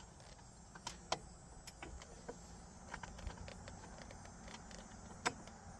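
Faint, irregular small metallic clicks and taps of a bolt being worked by hand into the air inlet tube's bracket while it refuses to start its thread. A low steady rumble sits underneath.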